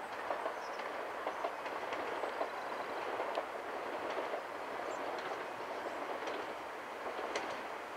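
A Régiolis regional railcar approaches slowly on the curve: a steady rolling rumble from the train, with scattered short clicks from the wheels on the track.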